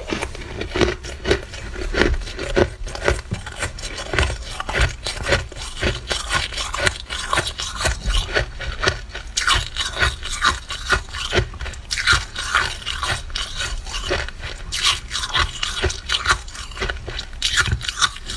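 Frost being scraped off a freezer's walls, a fast, continuous run of short rasping, crunchy strokes.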